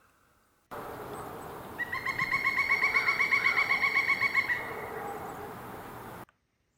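Pileated woodpecker giving its loud, maniacal, whinny call: a rapid run of about twenty repeated notes, about seven a second, lasting roughly three seconds. It sits over an outdoor background hiss that starts and cuts off suddenly.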